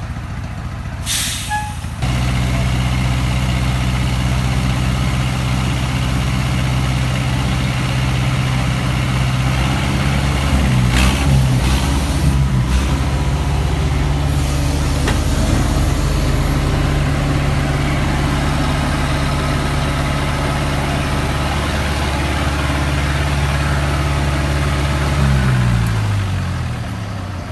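Heavy diesel engine of construction machinery running. It picks up and gets louder about two seconds in, holds a steady pitch under load, then its pitch falls near the end as it throttles back. A short hiss comes about a second in.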